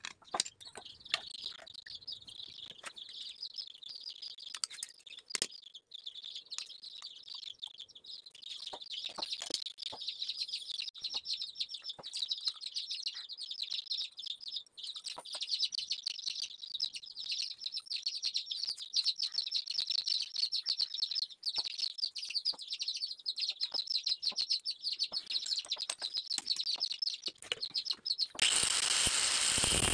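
Continuous high chirping of birds, with scattered sharp clicks of small metal tools being handled. Near the end a handheld angle grinder starts running, much louder than everything before it.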